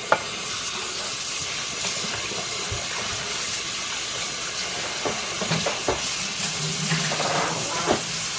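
Kitchen tap running steadily as chopped chicken pieces are rinsed, with a few light knocks.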